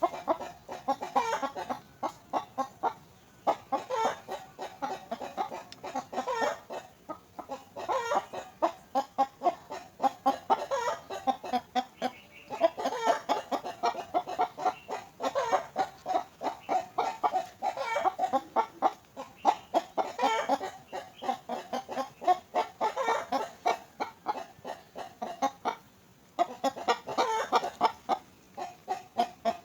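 Young myna giving rapid, repeated begging calls, several short notes a second in bouts of a couple of seconds with brief pauses between, as it asks to be fed.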